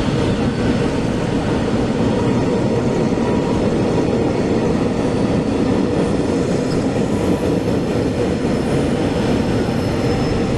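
Train running past on the rails with a loud, steady rumble; a thin high whine joins about halfway through.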